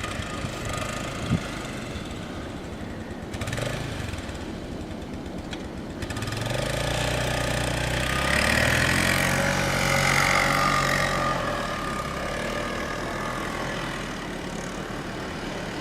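A motor vehicle drives past. Its engine grows louder from about six seconds in, is loudest around nine to ten seconds, then fades away, over a steady rush of blizzard wind.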